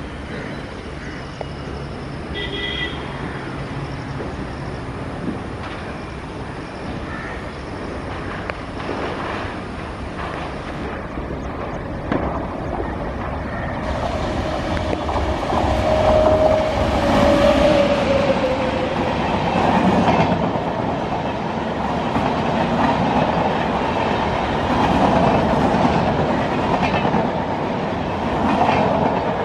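Electric-hauled express train running past on the main line: a steady distant rumble at first, then growing loud as the locomotive comes close. A brief tone falls in pitch as it goes by, and the LHB coaches follow with a dense rumble and the clickety-clack of wheels over rail joints.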